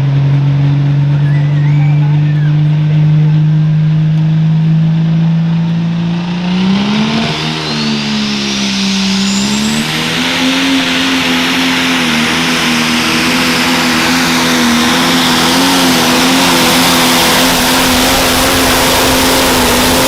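Turbocharged pro stock pulling tractor's diesel engine running flat out on a pull: it holds a steady high rev, dips and surges after a few seconds, then holds even higher revs under a loud rushing hiss with a rising turbo whistle, and backs off right at the end.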